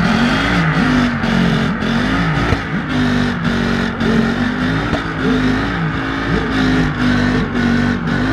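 Car engine revved hard up and down over and over, its pitch rising and falling about once or twice a second, with a steady high tyre squeal throughout, as in a burnout.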